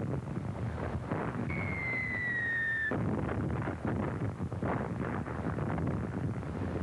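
Artillery barrage on an early sound-film soundtrack: a continuous rumble of shellfire. About a second and a half in, an incoming shell whistles, falling in pitch for over a second, and cuts off as it bursts.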